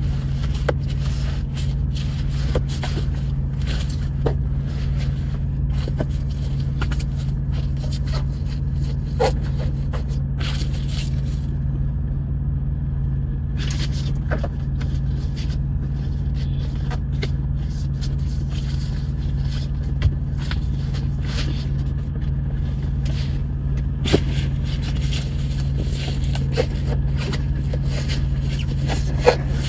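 Tractor-trailer's diesel engine running with a steady low drone, heard inside the cab. Over it, scattered light scrapes and crinkles of window coverings being handled.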